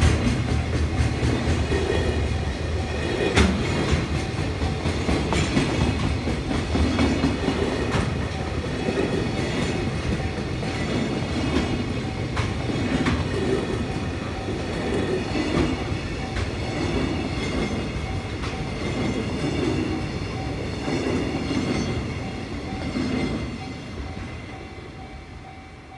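Container wagons of a freight train rolling past at speed, their wheels clacking over the rail joints, with the level crossing's warning bell ringing steadily underneath. The train noise dies away over the last few seconds as the end of the train passes.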